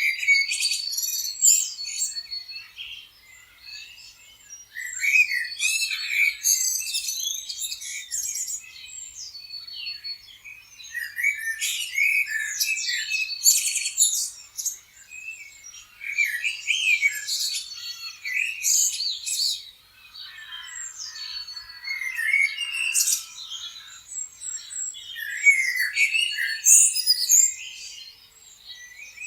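Several songbirds chirping and singing over one another, in busy clusters of short chirps and trills that come and go every few seconds.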